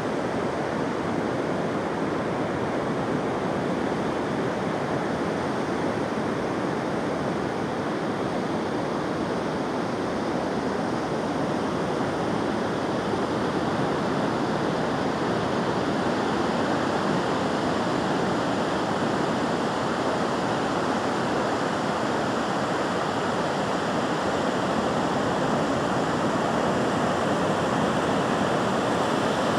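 Steady rushing water, an even wash of noise that holds at the same level throughout without surges or pauses.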